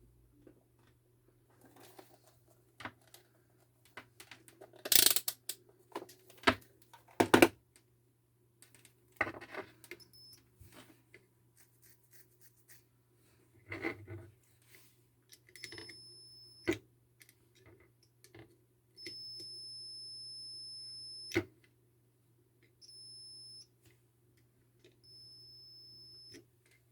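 Clicks and knocks, then four steady high-pitched electronic beeps of uneven length, the longest lasting over two seconds.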